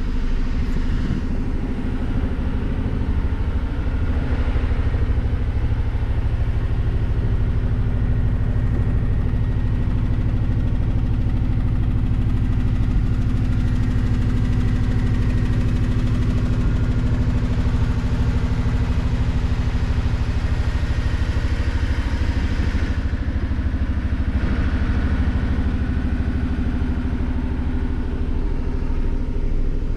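1985 Mercedes-Benz 380SL's 3.8-litre V8 running at a steady idle shortly after a cold start.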